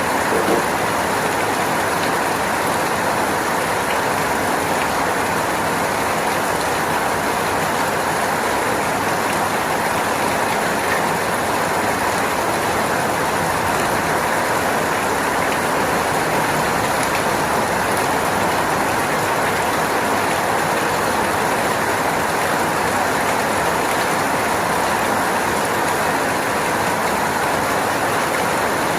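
Steady rain falling, an unbroken, even hiss.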